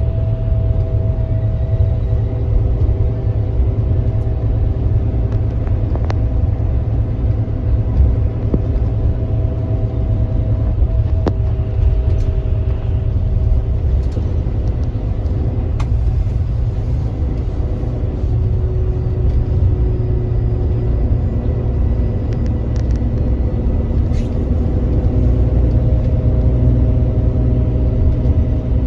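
Kia Granbird Sunshine coach cruising at steady speed, heard from inside the bus: a heavy, steady low rumble of engine and road, with a few steady whining tones from the drivetrain that drift slightly in pitch.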